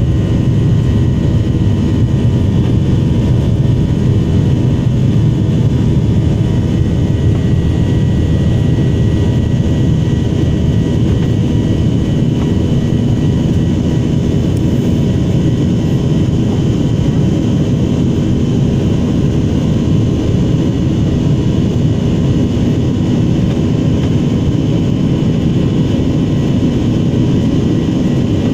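Steady engine and airflow noise of an airliner, heard inside the passenger cabin: a constant low rumble with a faint hum above it, not changing in pitch or level.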